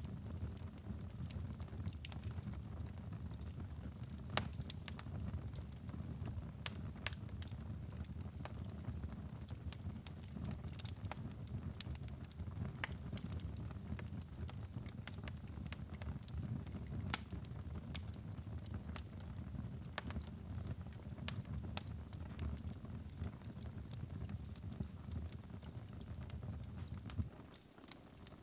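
Wood fire burning in a fireplace: a steady low rumble of flames with irregular sharp crackles and pops. The rumble dips briefly near the end.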